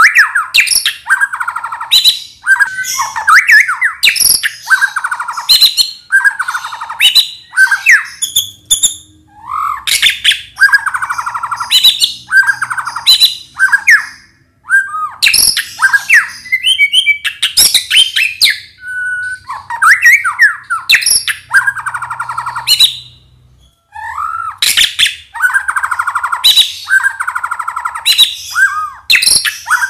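White-rumped shama (murai batu) singing loudly in full song: phrases of rapid buzzy rattling notes mixed with clear high whistles, rising and falling glides and sharp clicks, with brief pauses between phrases.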